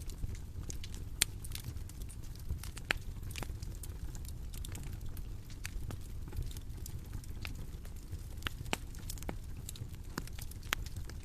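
Bonfire crackling: irregular sharp pops and snaps, a few louder ones, over a steady low rumble of burning.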